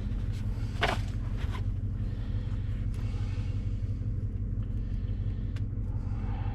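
Chevy Silverado's V8 idling steadily while warming up after a cold start, with a sharp click about a second in and a few lighter ticks.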